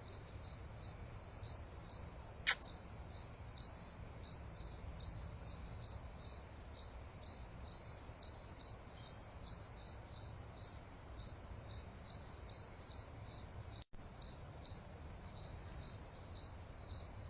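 Crickets chirping in a steady rhythm, about three chirps a second, with one short sharp tick about two and a half seconds in. The chirping cuts out for an instant a little before the end.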